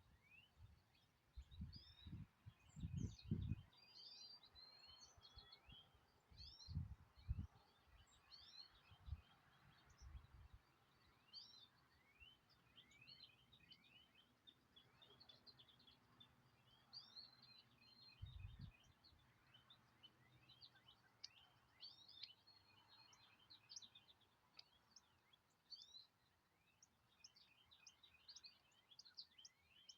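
Faint chorus of small songbirds chirping, many short quick downward-sweeping chirps overlapping throughout. A few low thumps near the start and again around a third of the way in and just past halfway.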